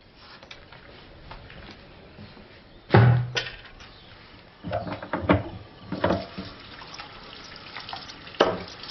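Water running from a tap into a sink, with several sudden knocks and clinks of things being handled, the loudest about three seconds in.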